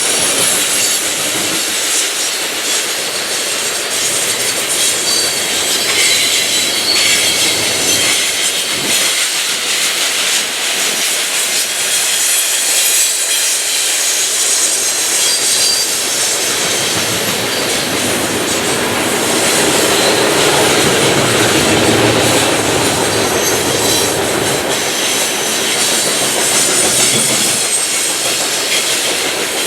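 Grain train's covered hopper cars rolling past, a steady rumble of steel wheels on rail with clacking over the rail joints and a faint high wheel squeal now and then.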